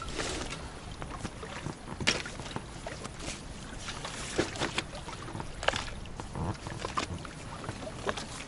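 Scattered knocks, clicks and rattles of gear being handled in a small boat, over a low, steady rumble.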